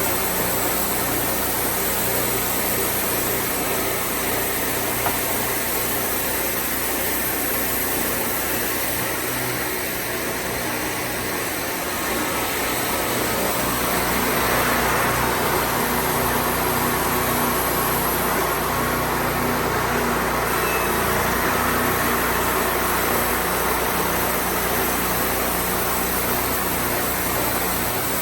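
Wood-Mizer portable band sawmill running steadily, its engine droning, with the sound growing louder and hissier about halfway through.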